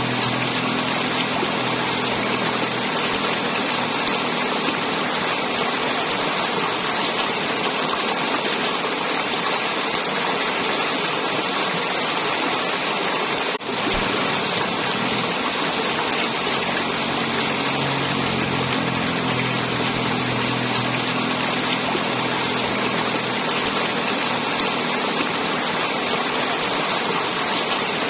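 River water flowing over rocks, a steady rushing and gurgling, with a faint low hum at times underneath; the sound drops out for an instant about halfway through.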